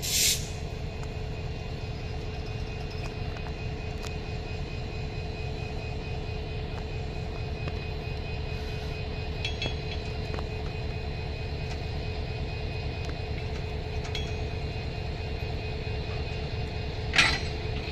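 Railway locomotive's engine running steadily with a low rumble as it slowly pushes a coach into the standing rake. There is a short burst of noise right at the start, and a louder sharp burst about a second before the end as the coaches couple.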